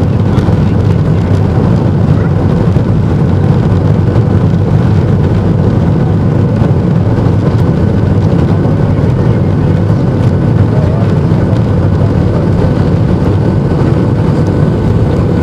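Steady drone of a Boeing 757's Rolls-Royce jet engines heard inside the passenger cabin: a loud low rumble with a few steady tones above it.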